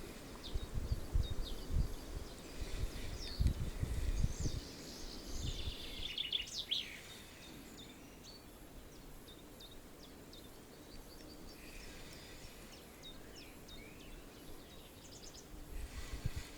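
Songbirds chirping and singing, with one busier song phrase a few seconds in. Wind buffets the microphone with low rumbling gusts during the first several seconds and again near the end.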